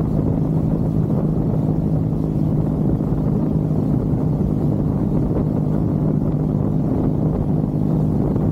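Triumph Bonneville's parallel-twin engine running steadily at an even cruising speed, heard from on the motorcycle.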